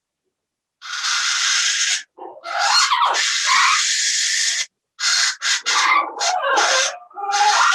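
Parrots squawking and screeching in a series of loud, harsh calls, some long and some short. The calls come through a video call's audio, so they cut in and out abruptly.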